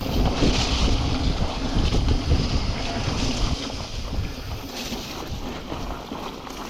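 Wind buffeting the microphone while riding a mountain bike, a steady rush with a heavy low rumble mixed with tyre noise; it is strongest for the first couple of seconds, then eases.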